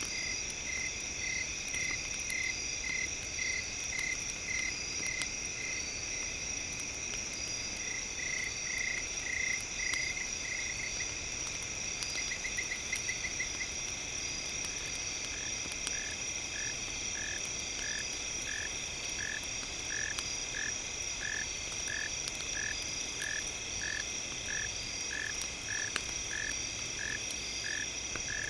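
A frog calling in a steady series of short notes, about two a second, with a brief quick trill midway, over a continuous chorus of insects trilling at several pitches. Faint crackling clicks, fitting a campfire, sit behind them.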